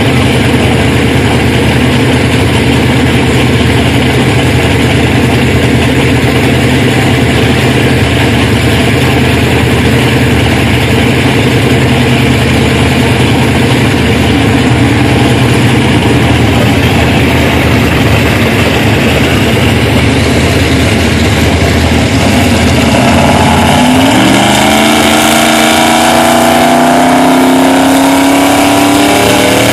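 Truck engine idling loudly and steadily, then revved about three quarters of the way through, its pitch climbing and staying high near the end.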